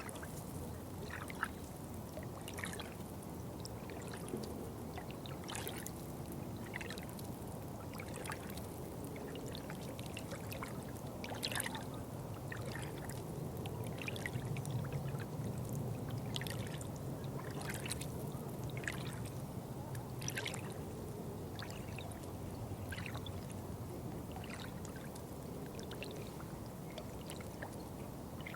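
Water trickling and pouring: a steady low rush with frequent irregular small splashes and drips.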